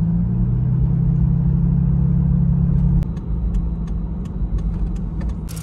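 A car's engine and exhaust droning steadily under way, heard from inside the car; about three seconds in the drone drops quieter and rougher, with a few light clicks.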